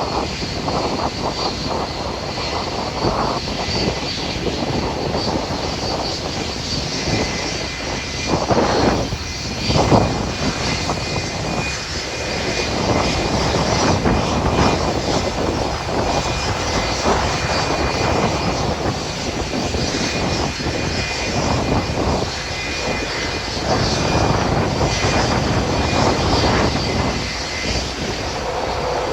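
Boeing 757-200 jet engines running: a steady loud rushing noise with a faint high whine held throughout.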